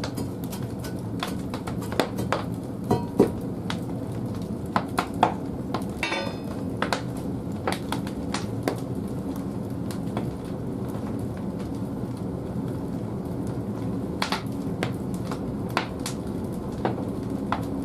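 Large firewood logs burning in the firebox of an old wood-fired bathhouse boiler: a steady low rush of the fire with many irregular crackles and sharp pops, the loudest cluster about two to three seconds in.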